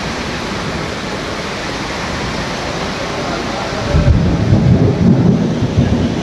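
Steady hiss of heavy rain and floodwater for about four seconds, then, after a cut, a louder, uneven low rumble.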